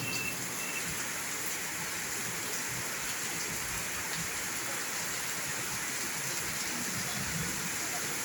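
Heavy rain falling steadily in an even downpour.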